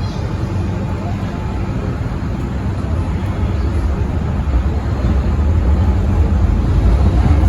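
Metro Cammell M-Train electric multiple unit running through the tunnel, a steady rumble of wheels and motors that grows gradually louder.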